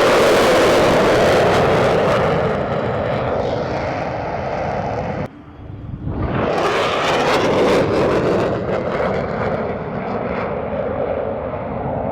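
Jet aircraft roaring loudly as they fly past. The roar cuts off suddenly about five seconds in, and a second pass swells up a second later.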